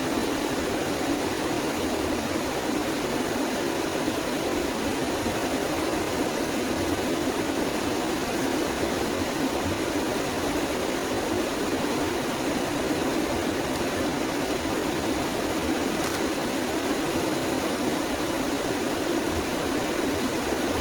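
A steady, even rushing noise with no distinct calls or knocks, the continuous background of a forest ambience recording.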